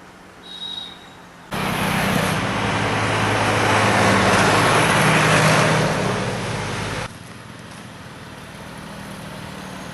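A motor vehicle running close by on the road, engine and road noise that cut in suddenly, swell, and stop abruptly about five and a half seconds later, leaving quieter background traffic.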